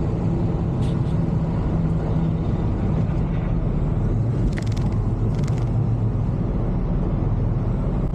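Semi truck's diesel engine and road noise heard from inside the cab while driving, a steady low drone, with a few faint clicks.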